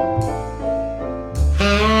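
Recorded jazz ballad played through ATC SCM 11 two-way bookshelf loudspeakers: a tenor saxophone melody over bass and piano. About one and a half seconds in, a louder held sax note enters with a strong bass note beneath it.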